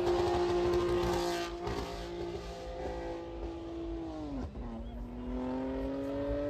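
A car engine at high revs holding a steady note. About four and a half seconds in its pitch drops sharply, as at a gear change, then climbs again as it pulls.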